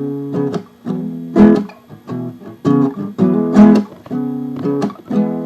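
Guitar strumming chords in a steady rhythm, with no singing.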